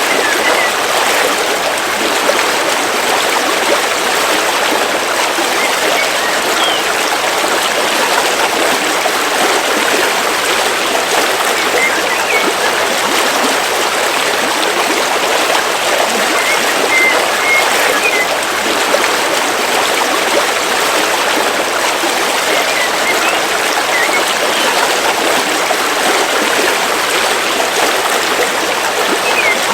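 River water flowing steadily through a forest, a continuous even rush, with a few faint short bird chirps now and then.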